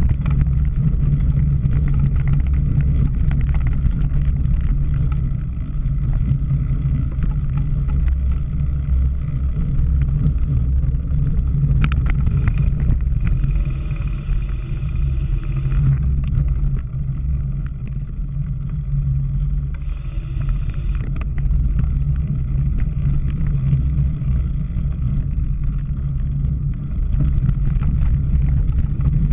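Wind rumbling over the microphone of a camera carried on a bike during a cyclocross race, loud and steady, with brief higher-pitched sounds around halfway through.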